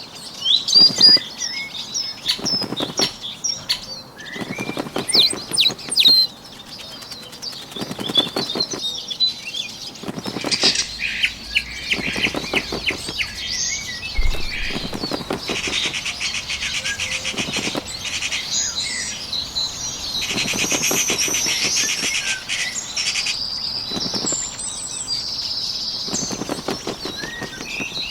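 A bird's wings flapping in repeated short bouts of rapid wingbeats, a few seconds apart, over songbirds chirping and trilling. The chirping grows denser in the second half.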